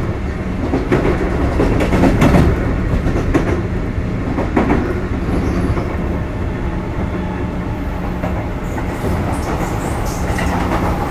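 Sotetsu 8000 series electric train running, heard from inside the passenger car: a steady rumble and hum with wheels clacking over rail joints several times, loudest in the first half.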